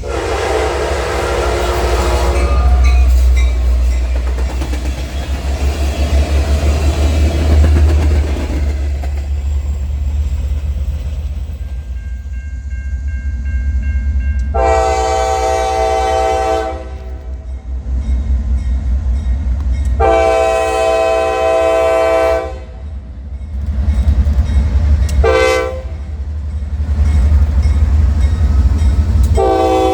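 A train locomotive's air horn sounds a chord over the low rumble of the train. After a blast at the start, it gives two long blasts, a short one and another long one: the standard warning signal for a grade crossing.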